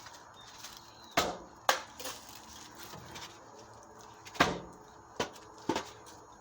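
Banging on a car windshield: sharp knocks in two groups, three about a second in and three more a few seconds later.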